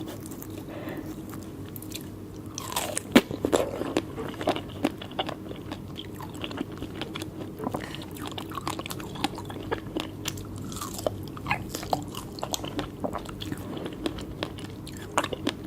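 A person chewing a whole mouthful of strawberry: many short mouth clicks and smacks, the loudest about three seconds in.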